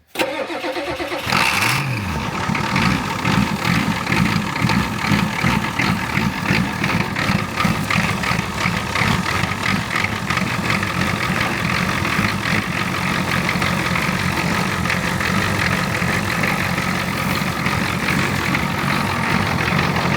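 Old truck's engine running just after being brought to life, revving up and back down about a second and a half in, then running on at a steady fast, rough beat.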